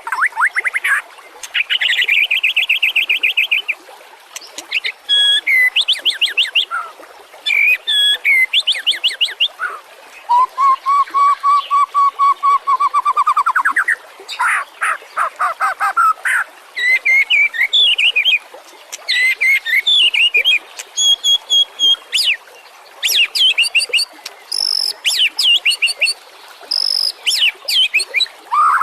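White-rumped shama singing a long, varied song: quick runs of repeated whistled notes, chattering trills and sweeping phrases, with a lower trill near the middle that rises steadily in pitch.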